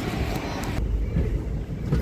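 Moving train running, a steady low rumble with wind buffeting the microphone; the higher hiss drops away abruptly a little under a second in.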